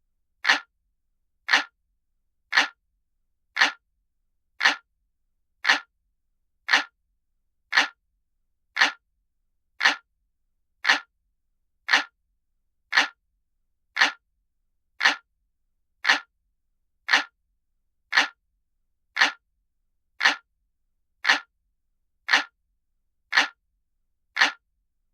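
Looped analog-clock ticking sound effect: one sharp tick about every second, evenly spaced, with silence between ticks.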